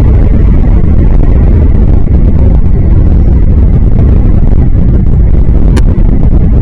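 Wind buffeting the microphone: a loud, steady low rumble, with one short click near the end.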